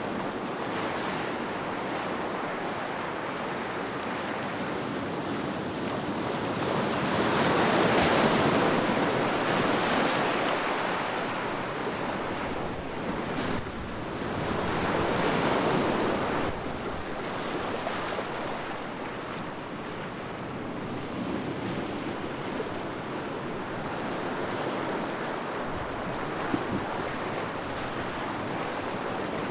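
Sea waves breaking and washing ashore, a steady rush of surf that swells louder about eight seconds in and again around fifteen seconds.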